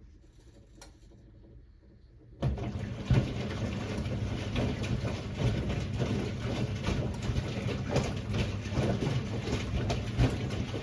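1978 Siemens WA4600 washing machine quietly paused, then its drum motor starts about two seconds in, turning the drum with a steady low hum while water sloshes and the wet laundry tumbles with irregular knocks.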